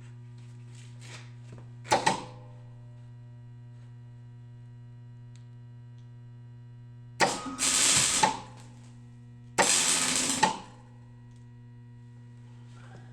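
Welder humming steadily, with three bursts of arc crackle as tack welds are laid on a broken steel clutch rod: a brief one about two seconds in, then two of about a second each near the end.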